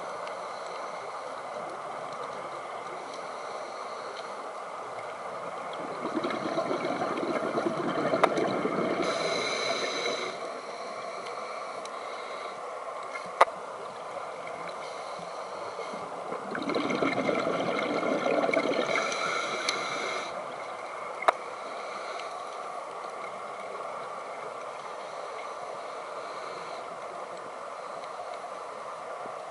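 Underwater hiss from a diver's scuba regulator, with two long bubbling swells of exhaled air about ten seconds apart. A few sharp single clicks come between them.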